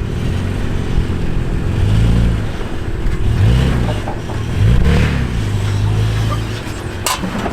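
Off-road vehicle's engine running under load, revving up twice in the middle as it climbs the tire obstacle, with a sharp knock near the end.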